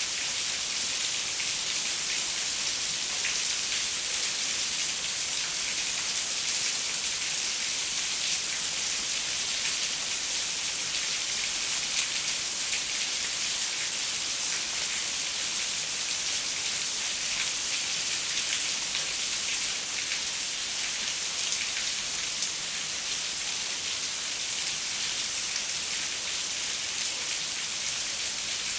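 Steady rain falling on a window: an even hiss with small drop ticks scattered through it.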